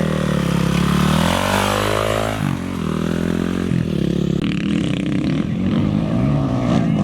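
Engine of an off-road racing motorcycle or quad running hard. Its pitch falls about two seconds in, then rises and wavers as the throttle changes.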